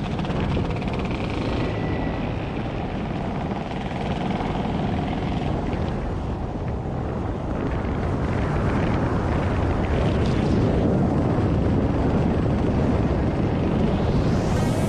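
A motor scooter running at riding speed, its engine mixed with wind rumble on the microphone, growing a little louder about halfway through.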